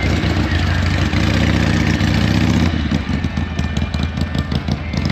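Vehicle engine running steadily, then turning to a choppy, uneven pulsing about two and a half seconds in.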